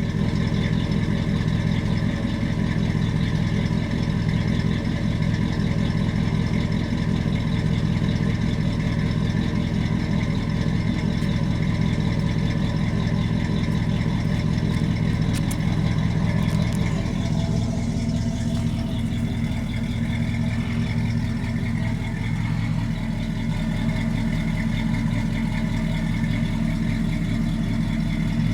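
1978 Chevrolet Caprice's 5.7-litre small-block V8 idling steadily while warming up after a cold start, its note shifting slightly past the middle.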